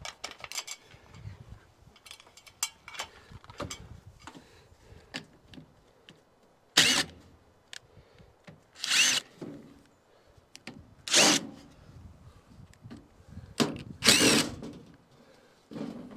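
Cordless drill-driver running in four short bursts about two seconds apart, with light clicks and knocks of handling between them.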